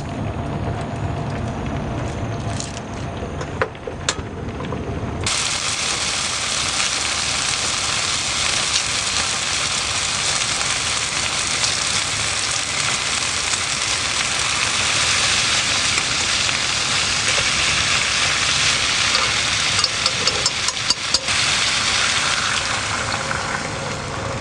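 Heavy rain falling with a strong, steady hiss that comes in abruptly about five seconds in, after a duller, lower rumble with a few knocks. A quick run of sharp ticks comes near the end.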